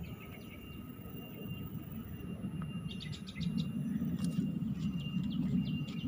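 Wild birds chirping: a quick run of short high chirps about three seconds in, then scattered calls, over a faint steady high tone. A low rumbling noise grows louder in the second half.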